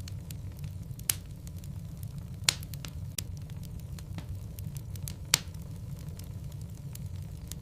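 Wood fire burning in a fireplace: a steady low rumble with scattered sharp crackles and pops from the burning logs, three of them louder than the rest.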